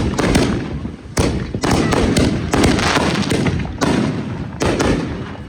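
Consumer fireworks going off in a rapid series of loud bangs, about one or two a second, each trailing into a rumbling echo.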